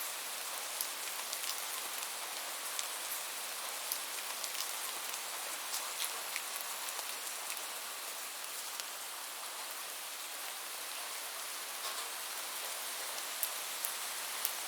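Steady rain falling: an even hiss, strong in the highs and thin in the bass, dotted with scattered sharp ticks of individual drops striking a surface.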